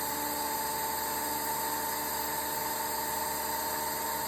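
Desktop model turbofan jet engine running steadily after ignition, well above its air-start speed: a constant whine over an even hiss of rushing air.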